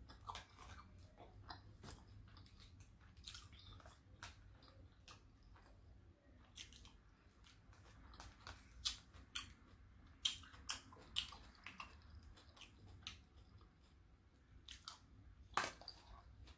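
A person eating: quiet chewing and mouth sounds with many short clicks and crunches, a few louder ones past the middle and near the end.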